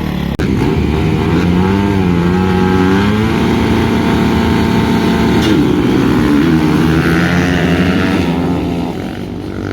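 Motocross dirt bikes running on the track, several engines at once, their pitch rising and falling as the riders open and close the throttle.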